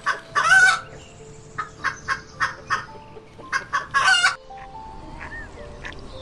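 A chicken clucking: a run of short, sharp clucks, the loudest calls about half a second in and around four seconds, then it goes quieter.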